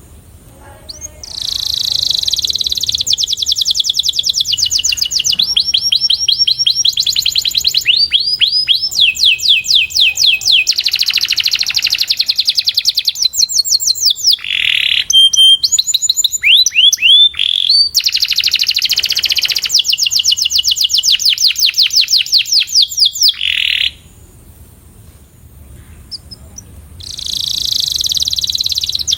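Domestic canary singing long phrases of very fast trills, each a rapid run of repeated notes, broken by a few sweeping slurred notes. The song starts about a second in, stops near the twenty-fourth second and starts again a few seconds before the end.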